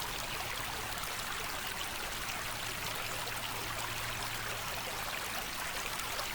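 White Clay Creek flowing, a steady even rush of water, with a faint low hum underneath that fades out about five seconds in.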